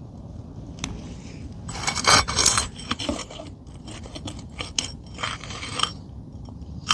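A metal tool scraping and clicking under an asphalt shingle as it tries to get beneath a roofing nail, with a louder stretch of scraping about two seconds in. The nail is driven all the way through, tight to the decking, so the tool cannot catch its head.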